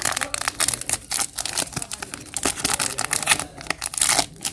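Sausages frying in a pan, the hot oil crackling and spitting in a dense run of rapid, irregular clicks.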